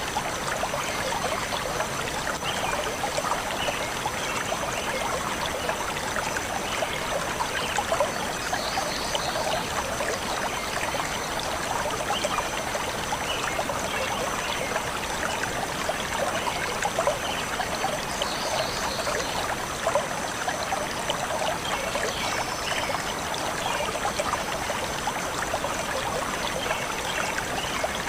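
Shallow stream of water flowing and babbling steadily over stones, a constant trickling.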